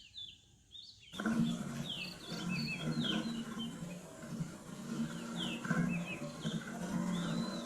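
Several small birds chirping, with many short falling calls. About a second in, a louder low hum of unclear source abruptly joins them and carries on under the calls.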